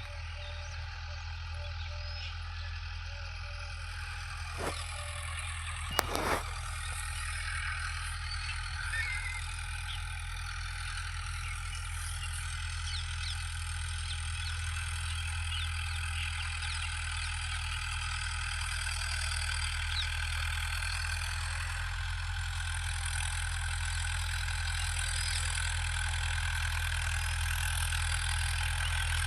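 Tractor engine running steadily as it pulls a rotary cutter through the field, slowly growing louder. Two sharp knocks come about five and six seconds in.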